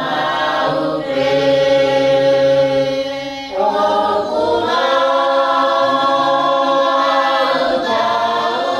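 A choir singing in several voices, holding long sustained chords, with a short break and a fresh chord about three and a half seconds in.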